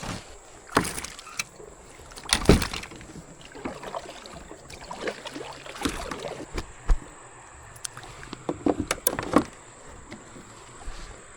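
Irregular knocks, taps and clatters of handling inside a kayak while a caught fish is held and looked over. The loudest strikes come about two and a half seconds in and in a quick cluster near the end.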